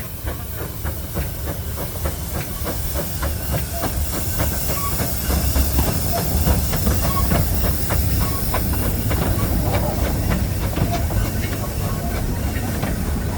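Steam locomotive and its train running past, with a steady steam hiss over a deep rumble and a fast run of regular clicks. It grows louder over the first half, then holds.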